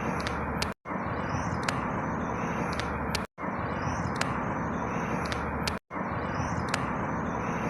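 A short outdoor field recording of a steady background rumble with a few high bird chirps, looped every two and a half seconds so the same chirps repeat, with a brief silent dropout at each join.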